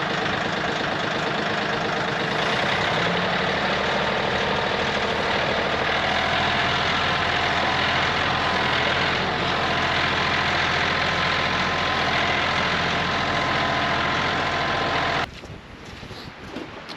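Tractor engine running steadily. It cuts off suddenly near the end, leaving a much quieter background.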